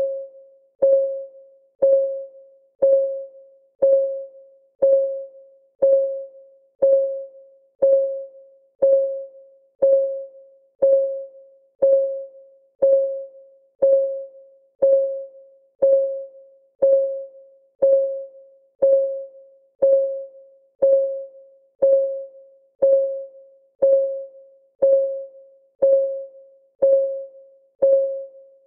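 Clock ticking steadily at one tick a second, each tick a sharp click with a short ringing tone that dies away before the next.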